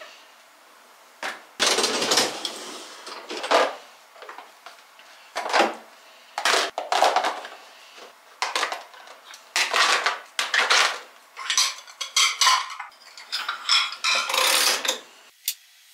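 Dishes and cutlery clattering and clinking as they are handled, in a dozen or so irregular bursts.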